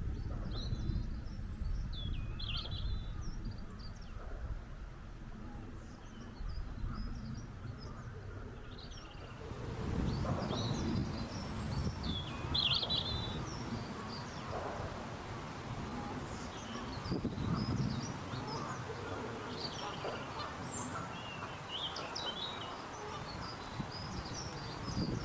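Several wild songbirds singing and calling: short high chirps and trills come and go throughout, over a steady low rumble.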